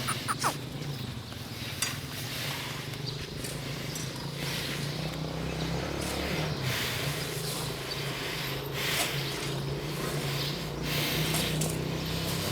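A large bull snorting, forceful breaths blown out through the nostrils every second or two, a sign the animal is agitated and angry. A steady low hum runs underneath.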